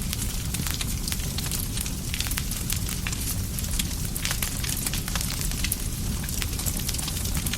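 Campfire burning with a steady low rumble of flames and frequent irregular crackles and pops of burning wood.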